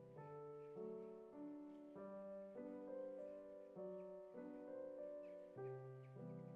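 Soft background piano music: gentle sustained chords, with new notes coming in about every half second.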